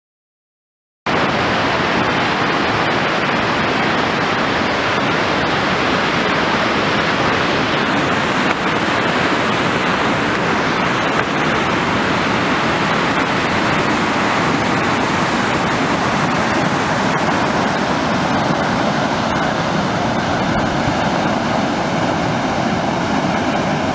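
Floodwater rushing down an arroyo in flash flood: a loud, steady rush of water that starts about a second in.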